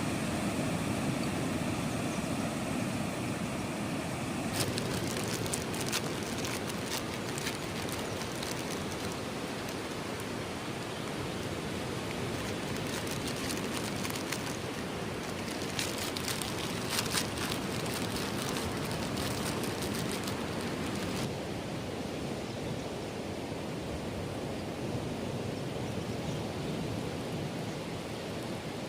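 Steady wash of sea surf on the beach, with spells of light crackly ticking from about five to nine seconds in and again from about sixteen to twenty-one seconds.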